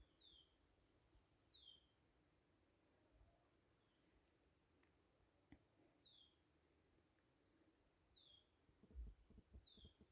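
Faint birdsong: a small bird repeating short high notes, about two a second, alternating a level whistle with a falling slur. A few low thumps come near the end.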